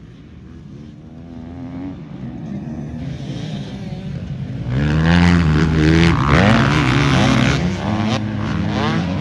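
Several motocross bike engines revving hard, their pitch rising and falling with throttle and gear changes. The sound grows louder and is loudest from about five seconds in as the bikes close in.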